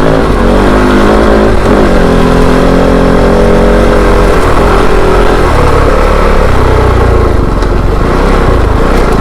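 Kove 450 Rally's single-cylinder engine revving under load on a short, steep dirt hill climb, its pitch rising and falling as the throttle opens and closes.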